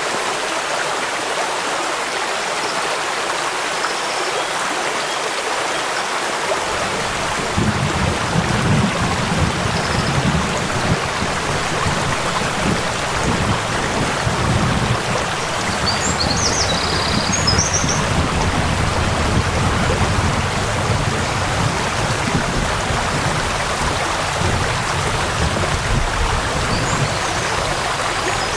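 Steady rushing water from a waterfall and stream, with rain falling. A deeper rumble of the water comes in about seven seconds in, and a few faint high chirps sound about halfway through.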